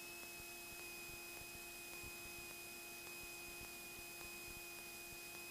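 Faint steady electrical hum and hiss with a thin, steady high whine, as on a cockpit headset or intercom audio feed between radio calls.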